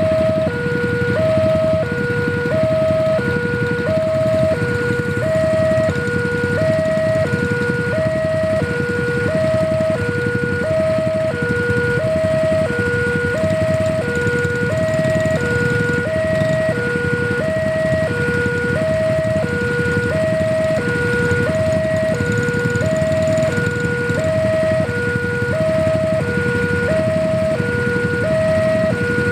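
Electronic two-tone level-crossing warning alarm sounding continuously, alternating a lower and a higher tone about once a second, over a steady low rumble.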